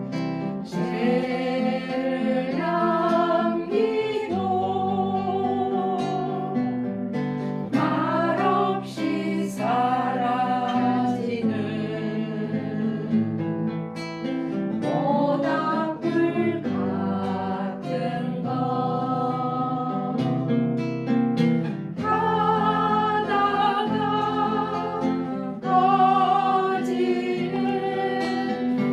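A woman singing a slow song with guitar accompaniment, her melody rising and falling in phrases over steady held bass notes.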